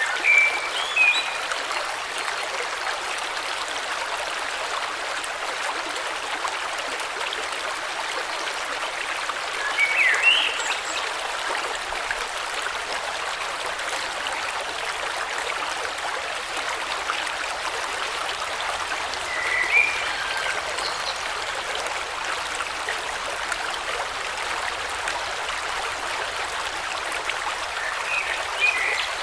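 River water flowing steadily, with a bird giving a short chirping call four times, roughly every ten seconds.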